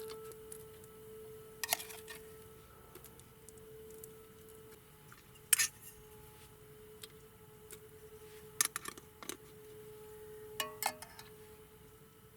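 Sharp metallic clinks and taps of metal camping cookware, a few at a time with gaps of several seconds, over a steady ringing hum.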